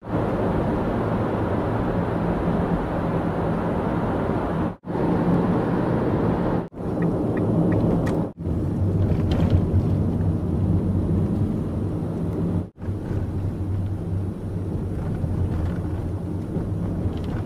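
Steady rumble of a vehicle running, with a low drone, cut off abruptly by a few short gaps.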